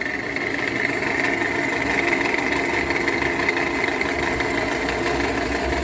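Toyota Camry XV55's 2.5-litre four-cylinder engine idling steadily with a knocking, diesel-like clatter. The owner traces the noise to the drive-belt tensioner or the alternator: pressing on the tensioner makes it stop.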